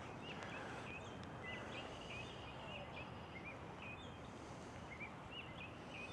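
Small birds chirping, many short notes a second, over a steady outdoor background hiss.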